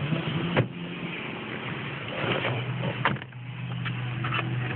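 Car running: a steady low engine hum with road noise, and two sharp knocks, about half a second and three seconds in.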